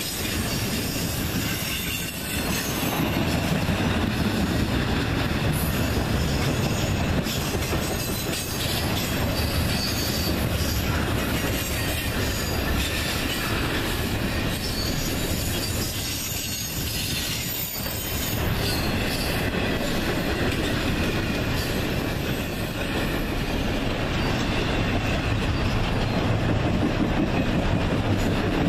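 Intermodal freight cars carrying truck trailers and containers rolling past close by: a steady wheel-on-rail rumble with clickety-clack over the rail joints and some wheel squeal.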